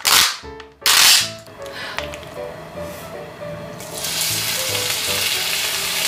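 Plastic film lid ripped off a tub of kimchi in two quick tears, then kimchi dropped into hot oil in a frying pan, starting a steady sizzle about four seconds in. Faint background music.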